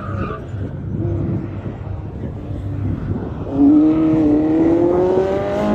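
Lotus Elise slalom car's engine working through the cones: uneven, lower running for the first few seconds, then about three and a half seconds in it grows louder and climbs steadily in pitch under hard acceleration, cutting off sharply near the end as the driver lifts or shifts.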